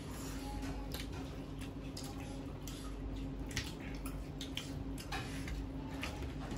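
Close-up eating sounds: wet chewing and lip-smacking with many small irregular clicks, as people eat fish head and other food with their fingers. A steady low hum runs underneath.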